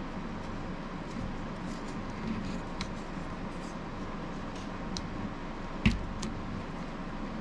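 Light clicks and taps from hands handling a knife sheath and its plastic belt clip, with one sharper knock about six seconds in, over a steady low background hum.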